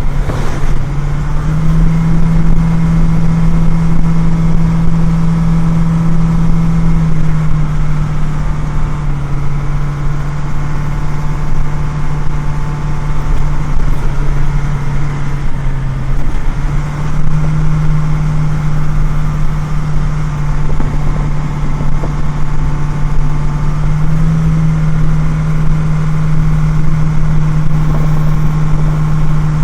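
Loaded grain truck's engine running steadily on the road. Its low hum steps up and down in pitch several times as the engine speed changes.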